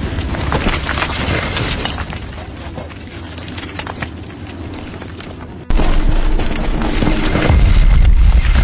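A noisy background with scattered clicks, cut off abruptly about two-thirds of the way in by a loud, deep rumbling boom that carries on.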